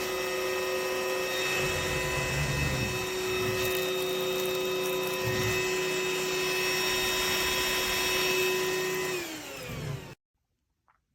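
Trucozie cordless stick vacuum running with a steady high motor whine and rushing air. Just after nine seconds in it is switched off and the whine winds down in pitch, then the sound cuts off abruptly.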